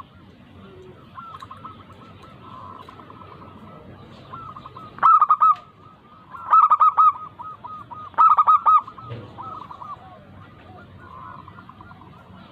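Zebra doves (perkutut) cooing: three loud bursts of rapid staccato coo notes about five, six and a half and eight seconds in, with fainter similar cooing between them.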